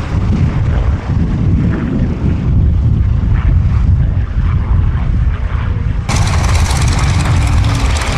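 Propeller-driven P-51D Mustang fighters in flight, their Packard Merlin V-12 engines giving a steady, loud, deep drone. About six seconds in, the sound turns abruptly brighter and hissier.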